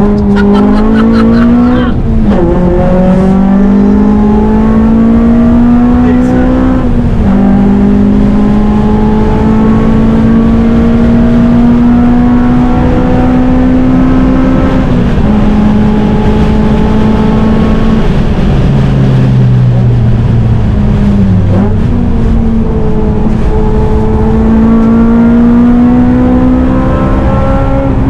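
Modified FN2 Honda Civic Type R four-cylinder engine pulling hard through the gears on track, through a cat-back exhaust. Revs climb slowly and drop sharply at gear changes about four times, with a deeper dip around three-quarters of the way through, over steady road and tyre noise.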